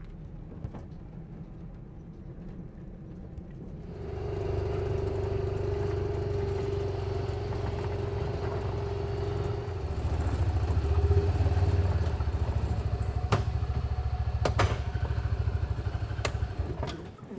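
A motor vehicle engine running as it drives, a steady low rumble with a steady whine above it. It grows louder about four seconds in and again about halfway through, with a few sharp clicks near the end before it cuts off.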